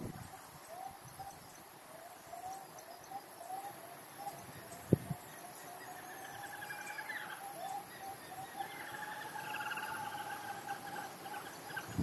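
Bird calls: a quick series of short repeated notes that run together into longer held calls from about halfway, with higher calls over them near the middle. A single short tap about five seconds in.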